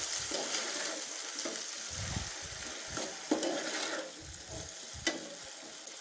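Diced potatoes sizzling in hot oil in a frying pan while being stirred with a spoon, with a few sharper scrapes of the spoon against the pan past the middle.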